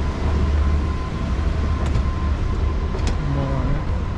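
Steady low rumble of vehicle engines, with a couple of light clicks and a faint distant voice near the end.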